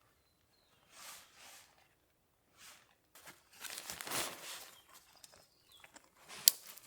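Several rustling, crunching bursts, the longest and loudest about halfway through, then a sharp click near the end. A few short, high, falling bird chirps sound faintly.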